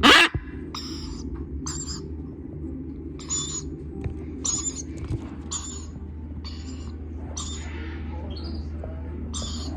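Lorikeet chicks calling: a run of short, high-pitched calls, roughly one a second, over a steady low hum. A loud, brief sound at the very start.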